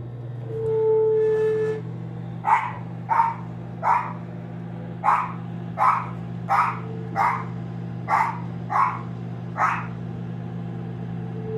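Running microwave oven with a steady low hum. About a second in there is a short held whine, followed by about ten short, sharp yelp-like sounds a little under a second apart, the weird noise the owner puts down to the microwave.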